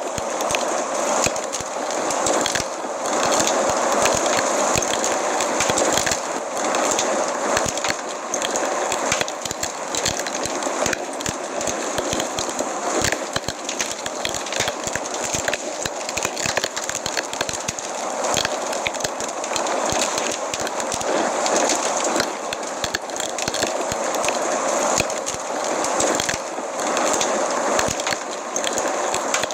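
Wood fire burning in a fireplace, with a steady rush of flame and many small sharp crackles and pops throughout.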